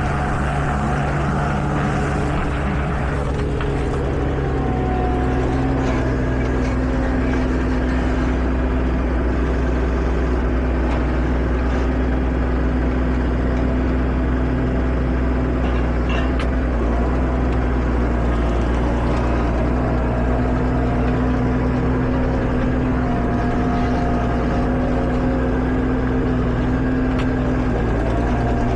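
Tractor diesel engine running steadily, with a tone in its drone that rises about four seconds in and then holds.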